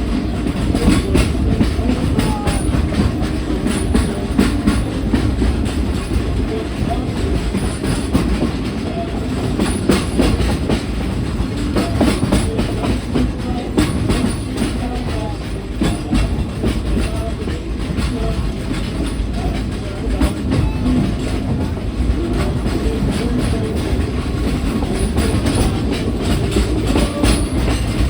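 Frisco #14 steam train's passenger cars rolling along the track, with a steady rumble and wheels clicking over the rail joints.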